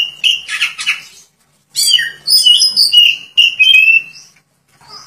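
Oriental magpie-robin (kacer) singing in full song: rapid phrases of clear whistles mixed with harsh notes, a short pause about a second in, then a longer run of phrases that stops near the end.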